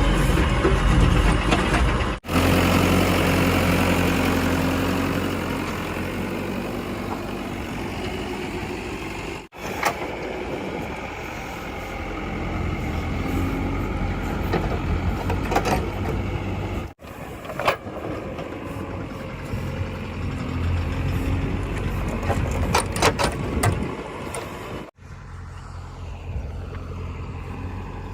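Diesel engine of heavy machinery running, in several short clips cut together, with a few sharp knocks in the second half.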